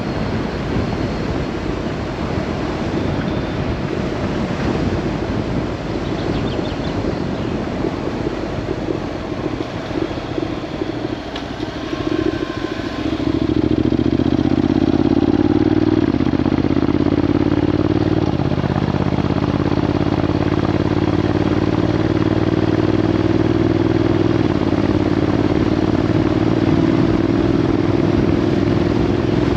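Motorcycle on the road, with wind rushing over the microphone. About halfway through, the engine note comes up loud and steady and rises slowly in pitch in small steps.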